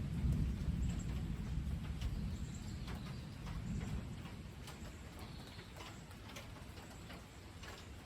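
Low rumble of thunder dying away over the first few seconds, with scattered drips and ticks of rain.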